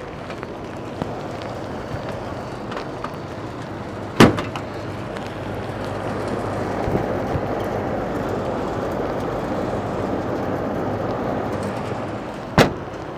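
Steady heavy rain falling on a flat rooftop, growing a little heavier partway through. Two sharp knocks cut through it, one about four seconds in and one near the end.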